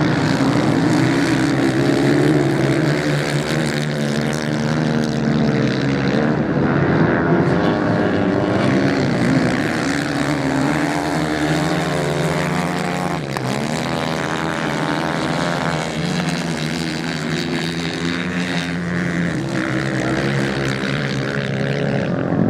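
Racing motorcycle engines running hard on a beach sand track, several bikes droning together with the pitch wavering as they rev and shift. About halfway through, the pitch briefly dips as a bike goes by.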